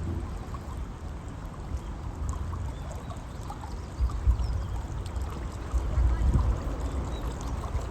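River water flowing and trickling steadily, with two low rumbles swelling about four and six seconds in.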